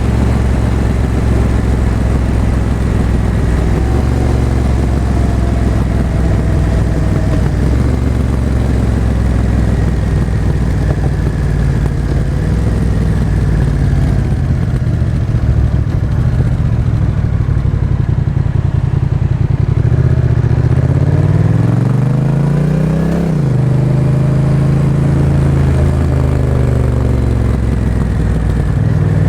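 Honda Rebel 1100's parallel-twin engine running through a Miller exhaust with the Racing db-Absorber baffle while the motorcycle is ridden. The engine note holds mostly steady, then about twenty seconds in the revs climb for a few seconds and fall off sharply before settling again.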